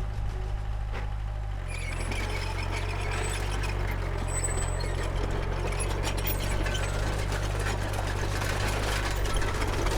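Diesel engine of a Komatsu D31P crawler bulldozer running under load, with a steady low drone and a busy rattling and clanking over it. About two seconds in, the engine note steps to a different pitch and the rattle grows louder.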